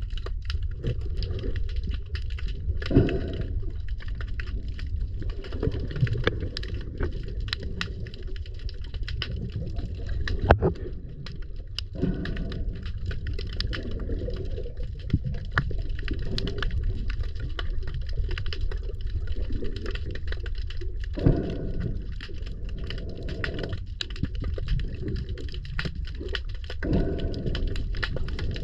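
Muffled water movement with a steady low rumble and scattered clicks and knocks, several of them sharper and louder.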